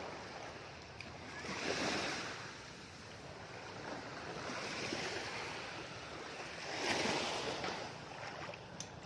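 Sea surf washing onto the shore: small waves breaking and rushing in three times, each surge swelling and then fading.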